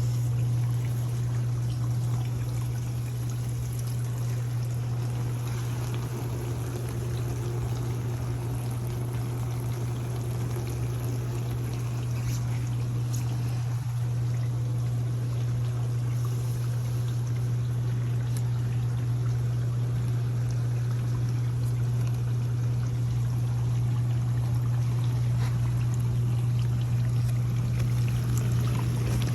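Dishwasher running: a steady low hum from the wash pump motor, with water splashing and spraying inside the tub.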